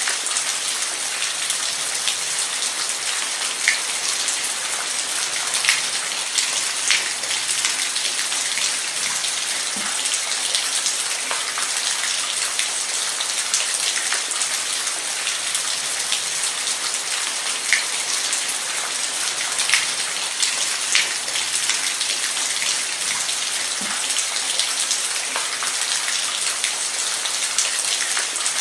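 Steady rain falling on a surface: a constant hiss with scattered individual drops ticking, a few louder drips standing out.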